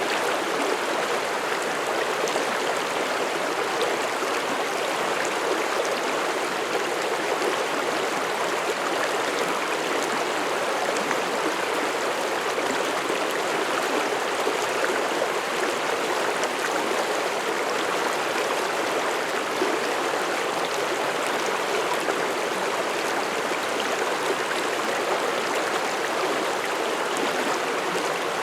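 Mountain stream flowing over rocks: a steady rushing and babbling of water that holds even throughout.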